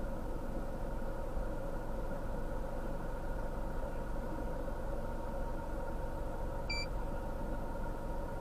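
Steady hum of an idling motor vehicle heard from inside the cabin, with one short electronic beep about seven seconds in.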